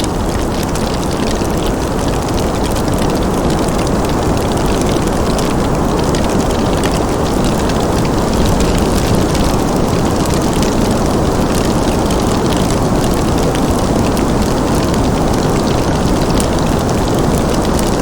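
Fireplace ambience: a steady low rushing noise with faint, fine crackles scattered throughout.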